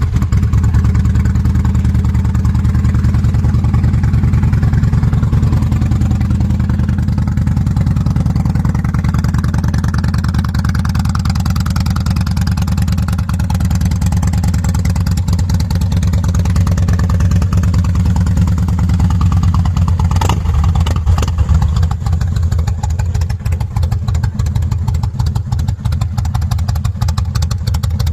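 Kawasaki VN 1500 V-twin idling through a Silvertail exhaust, just after starting, a steady low beat of exhaust pulses. Around twenty seconds in there is a brief blip, and the beat is a little less even afterwards.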